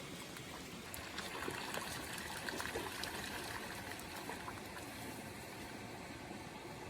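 Water trickling steadily, swelling slightly about a second in and easing again after about four seconds, with a few faint clicks.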